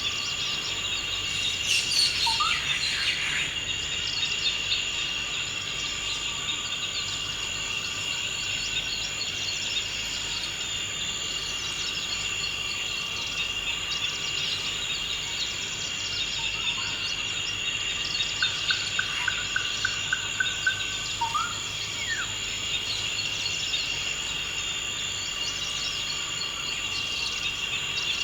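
Forest ambience: a steady, high insect chorus runs throughout, with a few short bird calls. About two-thirds of the way in, a bird gives a quick run of about ten repeated notes.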